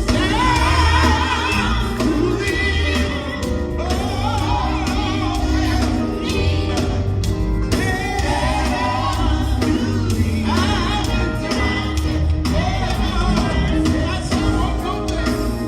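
Gospel group singing live with band accompaniment: a sung lead with backing voices over a strong bass line.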